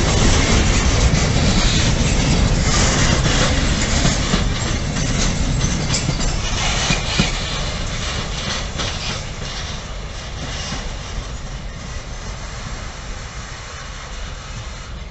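Freight train of sliding-wall covered wagons rolling past, with wheels clattering over rail joints in scattered clicks and knocks. The noise fades steadily as the wagons move away.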